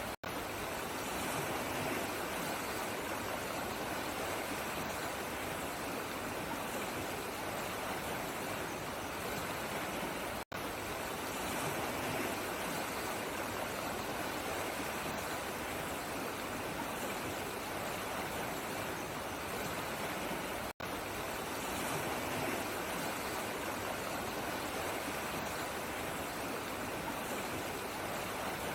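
Steady running water with an even rushing sound. It cuts out for an instant three times, about every ten seconds.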